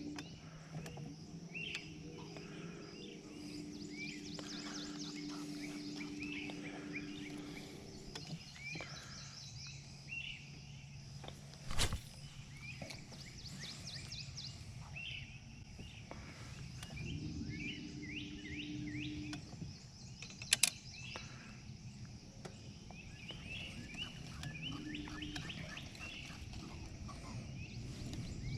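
Several birds chirping and calling in short repeated notes, over a low steady hum that fades in and out. There is a single sharp knock about twelve seconds in and another near twenty-one seconds.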